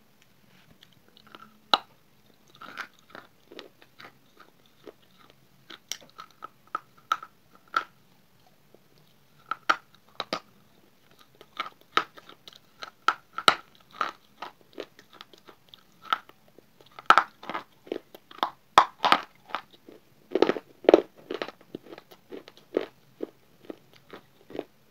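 Close-up biting and chewing of hard, dry grey earth pieces: sharp crunches and snaps come irregularly and then in dense clusters, loudest in the second half.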